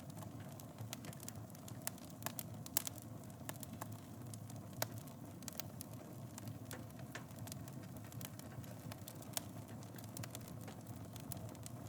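Wood fire crackling in a fireplace: irregular sharp pops and snaps over a steady low rustle of burning flames.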